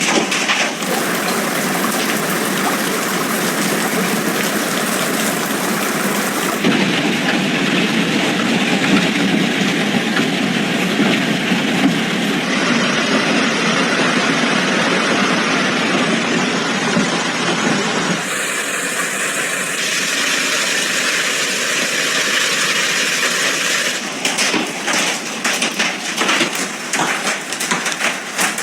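Heavy rain and rushing storm water, in a run of short clips that change abruptly every five or six seconds; the last clip is choppier, with rapid knocks or buffeting.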